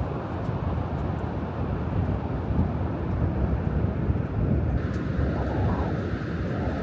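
Steady low rumble of wind and big ocean surf on a beach, with wind buffeting the microphone.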